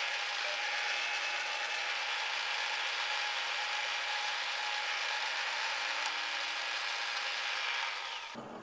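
Milling machine running a cut on the hose clamp tool's holder: a steady, high hiss with a whine. It stops abruptly near the end as the milling is finished.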